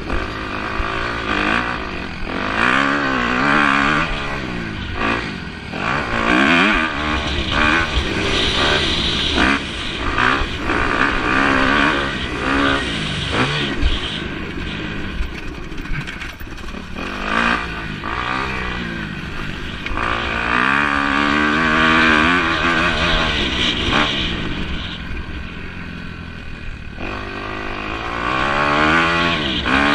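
Motocross motorcycles racing, their engines revving up and easing off again and again as the riders work the throttle around the track.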